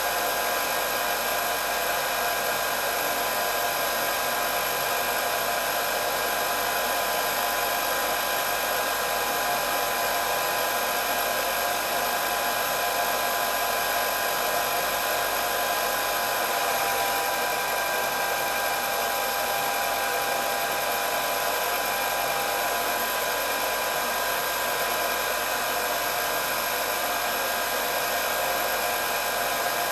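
Hair dryer running steadily: an even rush of blown air with a constant high motor whine.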